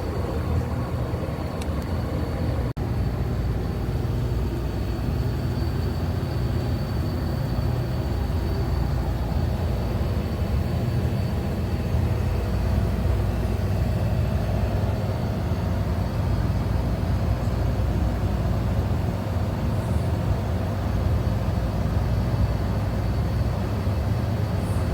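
Display refrigerator's condensing unit running steadily after a compressor replacement: a continuous low compressor-and-fan hum with a thin, steady high whine over it.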